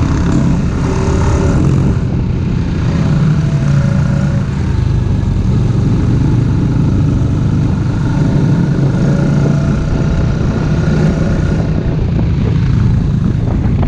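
ATV engine running steadily under way, a continuous loud drone with small shifts in pitch.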